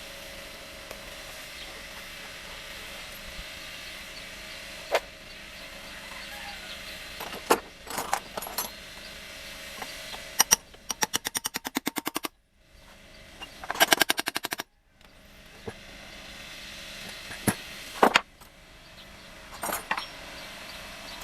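A wrench loosening the engine's casing bolts, with two short bursts of rapid, even clicking, about ten a second, near the middle, between scattered sharp metallic knocks of tools on the engine parts. A steady low hum runs underneath.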